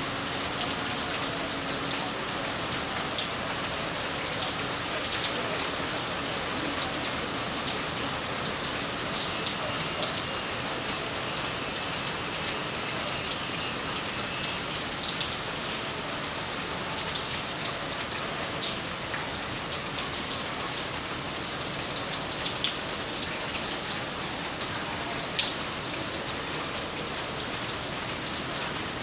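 Steady heavy rain, with close drops hitting sharply now and then; the sharpest hit comes near the end.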